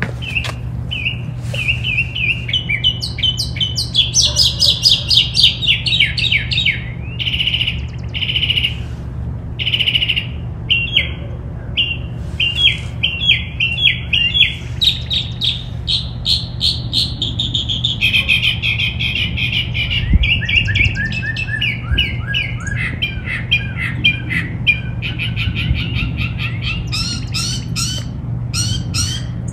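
Several backyard songbirds chirping and twittering without a break, in quick trains of short high notes, over a steady low hum.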